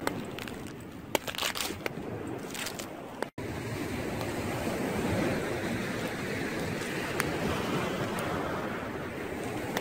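Corn cobs grilling over wood embers, the kernels crackling in a cluster of sharp pops and clicks during the first three seconds, over a steady noise of surf and wind on the microphone. The sound cuts out for an instant just after three seconds, then the steady surf and wind noise goes on with only an odd click.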